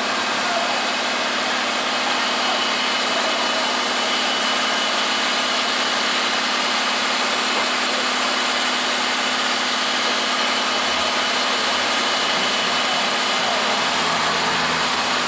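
Truck engine running steadily with a constant hum and no change in speed.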